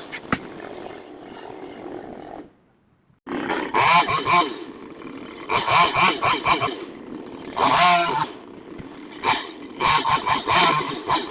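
Chainsaw running and revving in repeated loud bursts, its pitch wavering under load, as when cutting into wood. The sound drops out abruptly for under a second in the first third.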